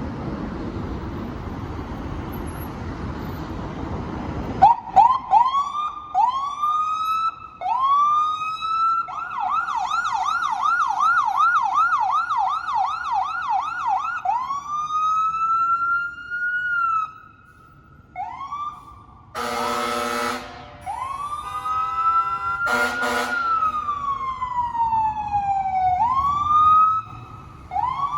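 Fire engine siren responding code 3. After a few seconds of traffic rumble it starts with short rising whoops, switches to a fast yelp about nine seconds in, then to slow rising and falling wails. It is cut by horn blasts twice in the later part.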